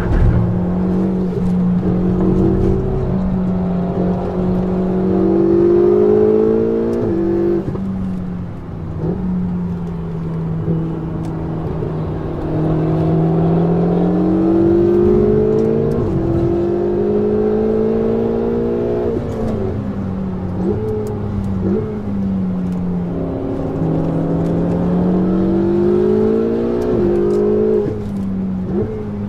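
Ferrari 488 GTB's twin-turbo V8 through a Capristo aftermarket exhaust, heard from inside the car: the engine note climbs steadily under acceleration and drops sharply at each upshift, four times, with shorter lifts and dips between the pulls.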